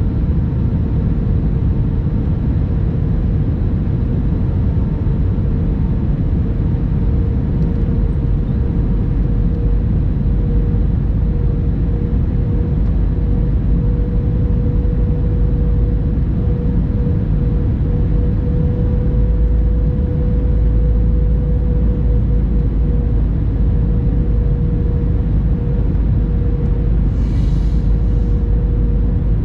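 Airbus A321-200 passenger cabin noise: a steady low rumble of jet engines and airflow, with a steady hum tone over it.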